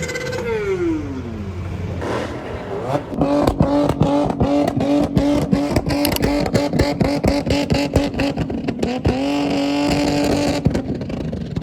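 Car engine revved hard. One rev rises, holds and falls away, then an engine is held at steady high revs for several seconds with a rapid crackling stutter, briefly dropping and rising again near the end.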